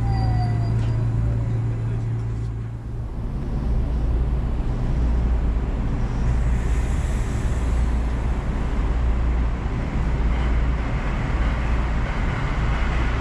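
Running noise of an electric commuter train heard from inside, at speed: a steady low rumble and hum of wheels on rail and motors. A faint whine falls in pitch in the first second or so.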